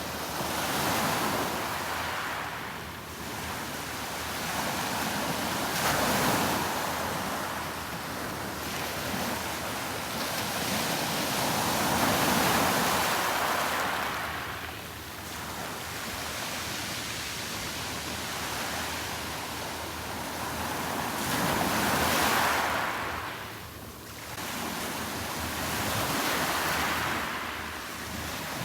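Sea waves breaking on the shore, the surf swelling and falling back every few seconds.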